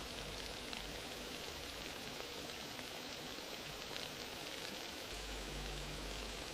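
Wood fire crackling steadily: a soft hiss with scattered small pops and snaps.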